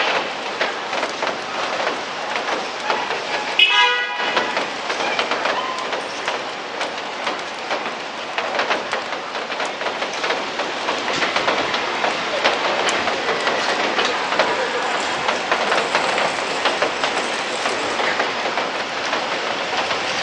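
Steady rain falling, with many small drop ticks. One short pitched sound about four seconds in.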